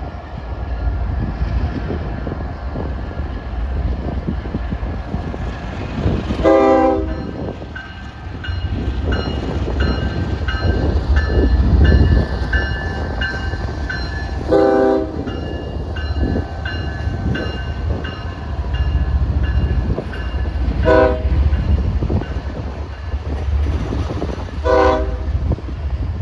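Diesel locomotive, an ES44DC on the yard job, pulling out with a steady engine rumble, sounding four short horn blasts spaced several seconds apart, with its bell ringing steadily through the middle stretch.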